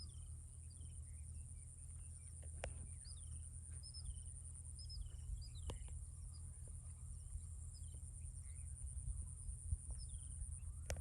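Birds chirping repeatedly in short, high calls that slide downward, over a steady high-pitched insect drone and a low rumble.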